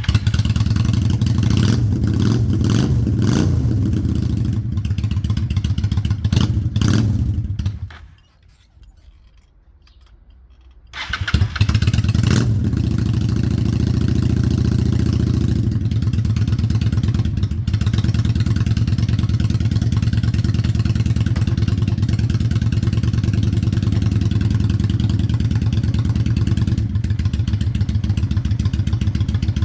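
Honda Shadow 600's V-twin engine running with some sharp clattering blips. It drops out about eight seconds in for roughly three seconds, then fires up again suddenly and runs steadily.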